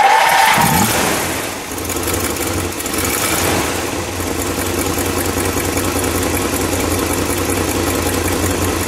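1960 Dodge Dart Phoenix's factory 318 V8, just started, runs fast and loud for about the first second and a half, then settles into a smooth, steady idle.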